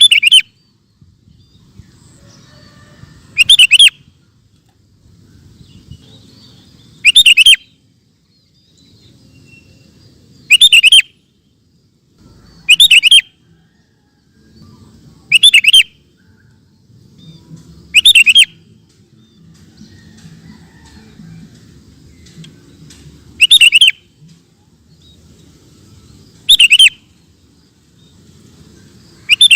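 Sooty-headed bulbul (kutilang) singing: short, loud song phrases about half a second long, repeated every few seconds, with a faint low rumble between them.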